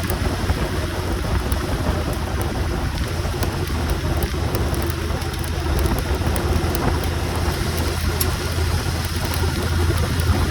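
Motorcycle being ridden: a steady rush of wind and road noise with the engine running underneath at a constant pitch.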